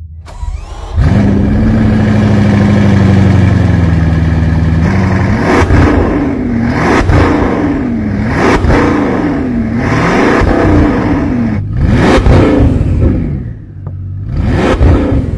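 Bugatti Chiron's quad-turbo W16 engine starting about a second in and settling to a steady idle that sinks slightly over a few seconds. It is then revved in a series of quick blips, about six, each rising and falling back in pitch.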